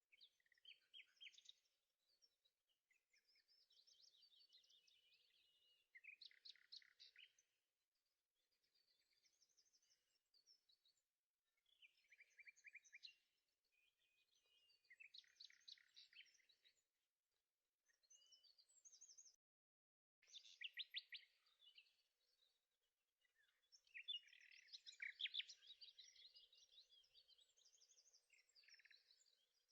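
Faint birdsong: bursts of high chirps and fast trills, a second or two each with short pauses between, growing busier near the end.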